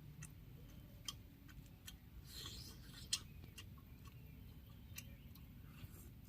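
Faint scattered clicks and small snaps, a dozen or so at uneven intervals, with the sharpest about three seconds in, just after a short rustle, over a low steady rumble.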